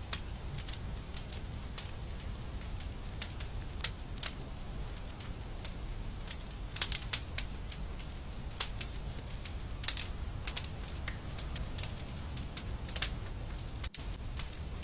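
Wood fire crackling in a fireplace: irregular sharp pops and snaps over a steady low rumble. The sound cuts out for an instant near the end.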